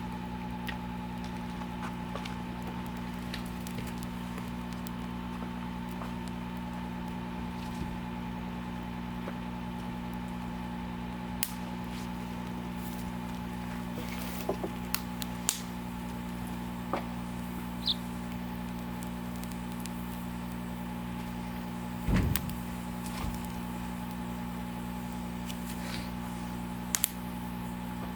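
Wood fire in a fire stand crackling, with scattered sharp pops, the loudest about two-thirds of the way in, over a steady low hum.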